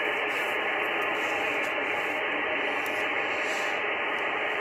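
Steady hiss of band noise from a shortwave transceiver's receiver, cut off at a narrow voice bandwidth, while the distant station's signal is too weak to stand out from the static.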